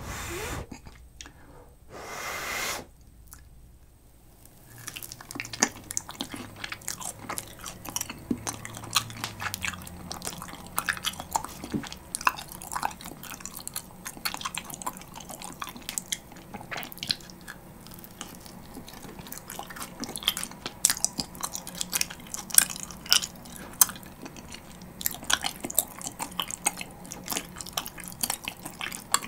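Two short puffs of blowing on a hot piece of grilled kirimochi (Japanese rice cake) coated in gochujang tteokkochi sauce, then chewing of the chewy, sticky rice cake: many small wet clicks and smacks.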